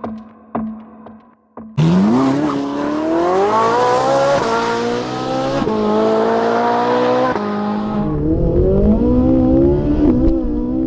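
Car engine accelerating hard through the gears, starting abruptly about two seconds in. The pitch climbs and drops back at each of three gear changes, then settles lower with a deep rumble.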